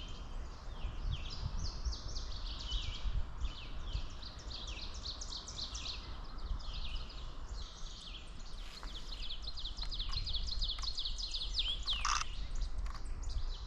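Spring woodland songbird chorus: many birds, warblers among them, singing at once in quick, high overlapping songs, with a louder falling call about twelve seconds in. A low rumble lies underneath.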